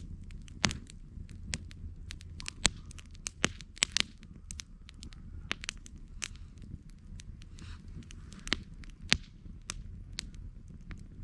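Campfire crackling: irregular sharp snaps and pops of burning wood, several a second, over a steady low rumble.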